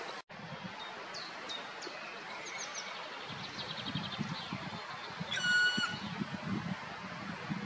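Birds calling outdoors: short high chirps and a quick run of notes, then a little after halfway one drawn-out call with a clear pitch, the loudest sound, fitting the black woodpecker's long call. A low rumble sits underneath from a few seconds in.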